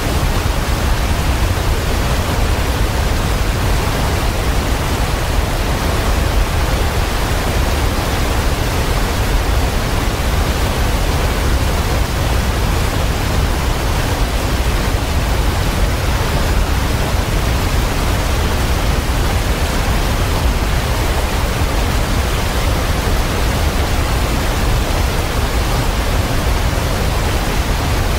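Waterfall: a loud, steady rush of falling water, deep and even, with no change throughout.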